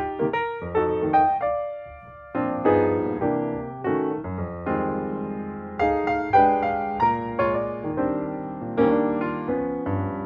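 Background music: gentle piano playing chords and a melody, each note struck and then fading.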